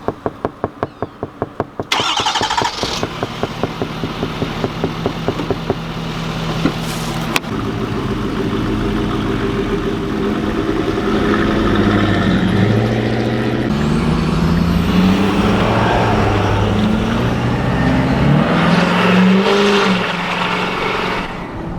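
Straight-piped Ford F250 pickup engine cranking with evenly spaced starter pulses, catching about two seconds in and running with a rhythmic lope. From about seven seconds in it pulls away, its exhaust note rising and falling several times through the gears.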